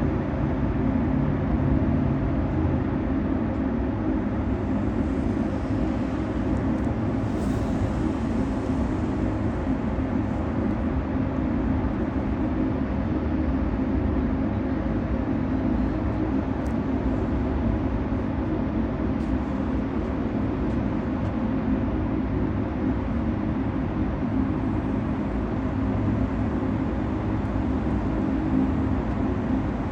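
Steady low rumble of a running road vehicle, unbroken throughout.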